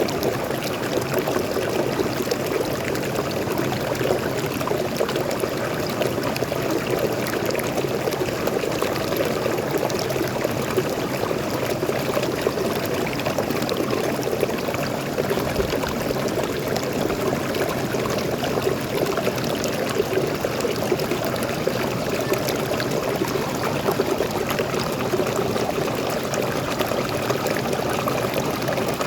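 Forest waterfall's water pouring and splashing into a stream, as a steady, even rush with no breaks.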